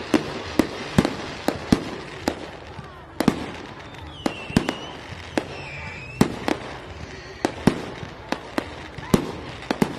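Fireworks going off: a string of sharp bangs at irregular intervals, roughly two a second, over a steady background rumble, with a brief wavering whistle near the middle.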